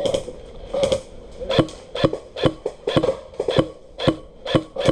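Airsoft gun fired in semi-automatic, single shots about two a second as cover fire, each a sharp click with a brief ring, about ten in all.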